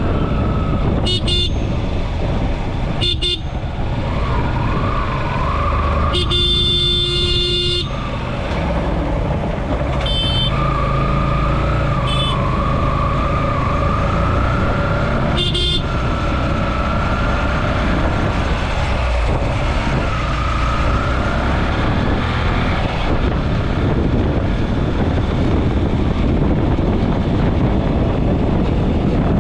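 Vehicle horns honking: several short toots and one longer blast of about two seconds, over a steady loud rushing roar.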